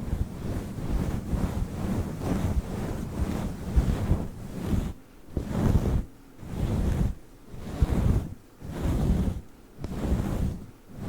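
Fluffy microphone windscreen being rubbed close to the mic: a low, rushing rustle. In the second half it swells and fades in slow strokes, about one a second.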